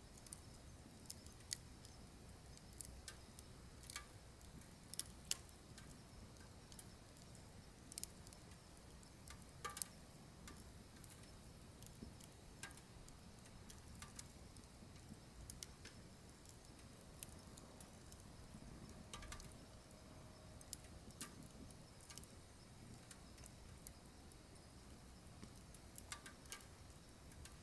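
Wood burning in a wood stove, crackling faintly with irregular sharp pops and ticks, a few of them louder, over a quiet background.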